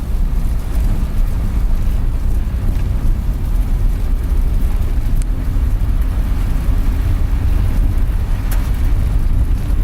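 Van driving on a road, heard from inside the cabin: a steady low rumble of engine and tyre noise.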